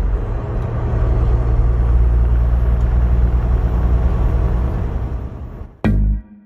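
Semi truck on the road: steady low engine drone with road noise, fading out near the end.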